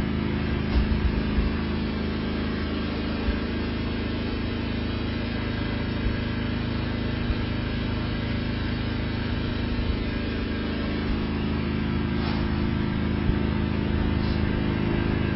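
An engine running steadily at an even speed, with a few light knocks about a second in.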